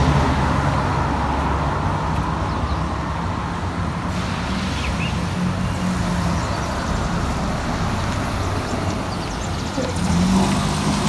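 Road traffic: motor vehicles running and passing over a steady background of road noise. A low engine hum is louder at the start and rises again about ten seconds in.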